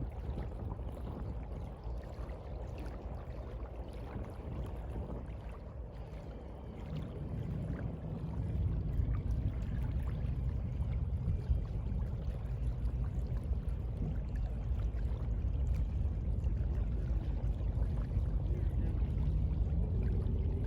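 Sea water washing and surging, a steady low rush that grows louder about eight seconds in.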